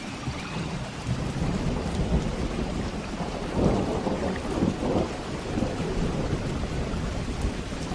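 Steady rain with thunder rumbling. The rumble builds about a second in and is loudest near the middle.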